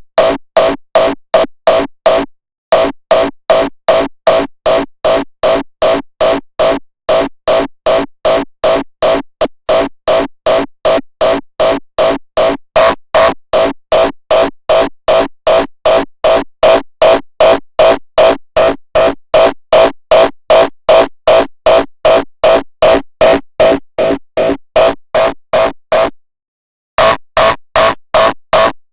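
Distorted raw hardstyle kick drum being designed in Ableton Live, looped at about two and a half hits a second (around 150 BPM), each hit a short pitched punch heavy in the midrange with little deep bass. The loop breaks off briefly twice and for nearly a second near the end before starting again.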